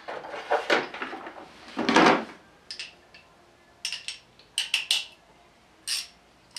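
Metal hand tools clinking and clattering as sockets, adapters and a ratchet are handled: a louder clatter about two seconds in, then a string of short, sharp metallic clicks.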